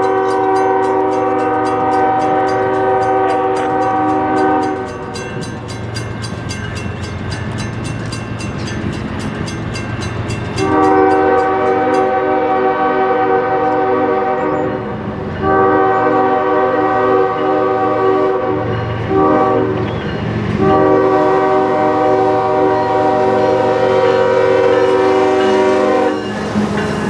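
Freight locomotive's multi-chime air horn sounding the grade-crossing signal: long blasts with a short blast just before the last long one. Train rumble runs underneath.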